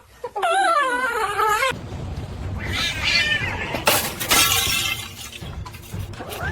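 An animal's wavering, whining call for about a second and a half, cut off abruptly, followed by clattering with several sharp crashes.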